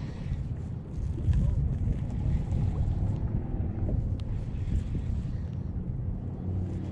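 Wind buffeting the microphone: a steady low rumble, with a single faint click about four seconds in.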